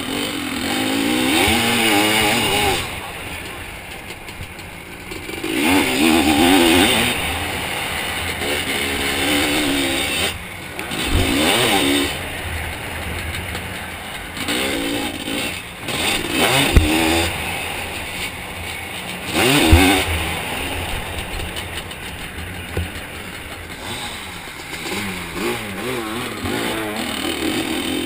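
Zabel 700 two-stroke sidecar-cross engine heard onboard, revving up hard and dropping off again and again through the laps, with a steady rush of wind and a few sharp knocks from the outfit over bumps.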